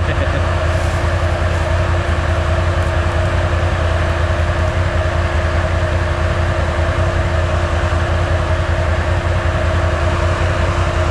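ATV engine running steadily at an even, unchanging pitch.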